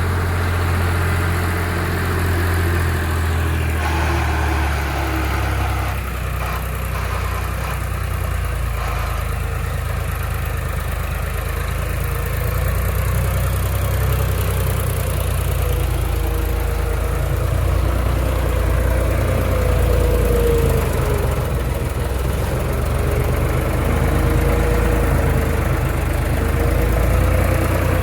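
Tractor engine running steadily, its pitch wavering up and down through the second half.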